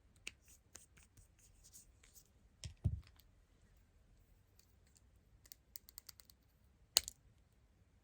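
Small clicks, taps and scratches of handling a smartphone and its small decoration parts at close range, with a dull thump about three seconds in and one sharp click near the end.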